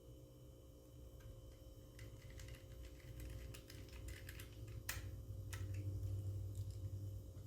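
Small, irregular clicks and taps of hands and a small tool working on an open laptop while an SSD is fitted and screwed in, with one sharper click about five seconds in.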